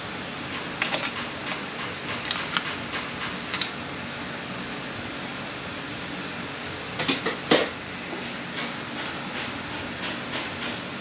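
Metal parts of an automatic transmission being handled on the bench: light clinks and taps over a steady background hiss, with two louder sharp knocks about seven seconds in.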